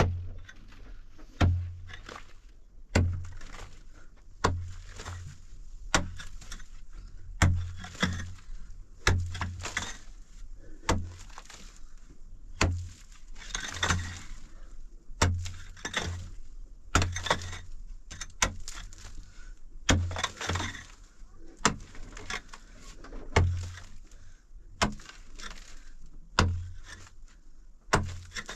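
A hand tool striking hard and steadily, about one blow every second and a half. Each blow is a dull thud with a sharp crack.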